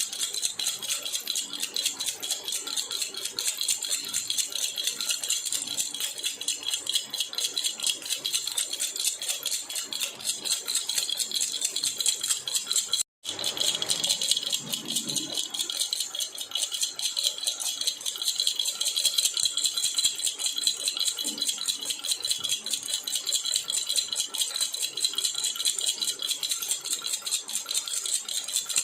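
A jhunjhuna baby rattle shaken steadily and fast, giving a continuous stream of high jingling rattles. It cuts out for an instant about halfway through, then carries on.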